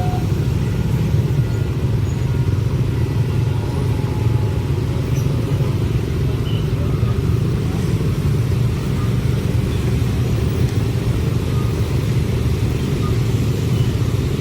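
Train passing with a steady low rumble.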